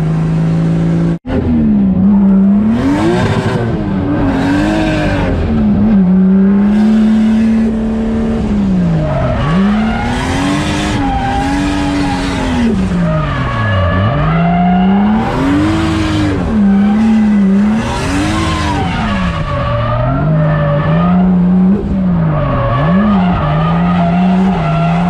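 630-horsepower drift car's engine revving up and falling back over and over as it is thrown through drifts, with tyres squealing. The sound cuts out for an instant about a second in.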